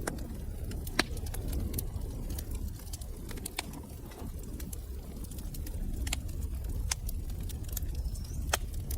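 Wood fire crackling in a fireplace: irregular sharp pops and snaps over a steady low rumble of the flames, with one loud pop about a second in.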